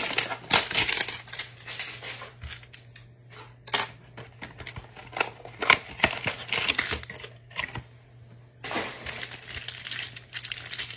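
Plastic and foil trading card packaging crinkling and tearing, with cards being handled: scattered crackles, then a denser burst of crinkling about nine seconds in. A faint steady low hum runs underneath.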